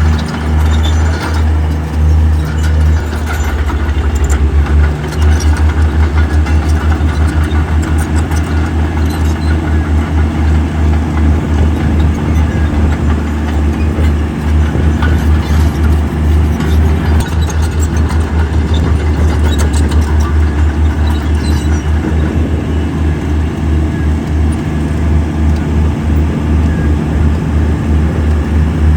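Diesel engine of heavy earthmoving machinery running steadily, a deep rumble that pulses rapidly.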